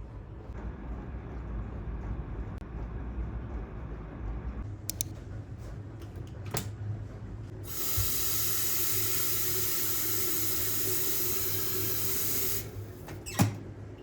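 A tap running into a sink for about five seconds, starting and stopping abruptly, followed by a sharp knock.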